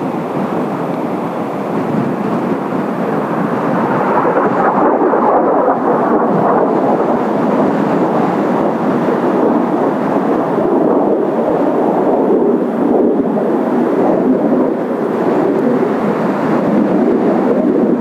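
Kawasaki T-4 jets' turbofan engines rumbling loudly overhead, swelling a little about four seconds in and then holding steady.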